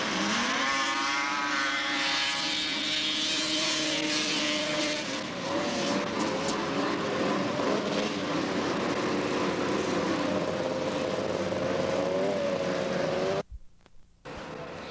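Two-stroke racing snowmobile engines at full throttle in a grass drag race, the pitch climbing steeply in the first two seconds as the sleds accelerate, then holding high and wavering. The sound drops out briefly near the end.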